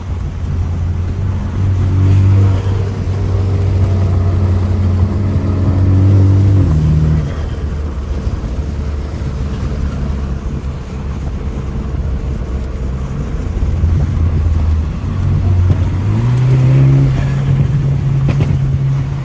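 BMW F30 328i's turbocharged four-cylinder engine pulling through a drive, with road noise underneath. The engine note rises about two seconds in, drops around seven seconds in, and climbs again near the end.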